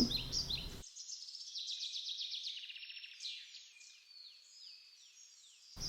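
Faint songbird chirping: a rapid trill, then a run of short falling whistles, stopping shortly before the end.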